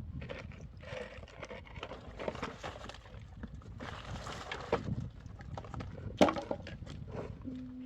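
Irregular knocks, clicks and scraping, with one sharp, loud knock about six seconds in.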